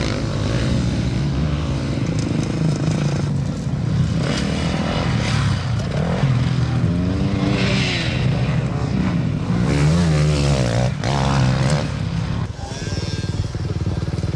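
Motocross motorcycle engines revving on the track, the pitch rising and falling again and again as the bikes accelerate and shift.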